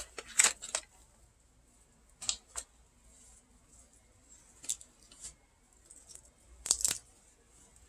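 A chocolate bar wrapper being worked open by hand: a few short, separate crackles of the packaging, with quiet pauses between them.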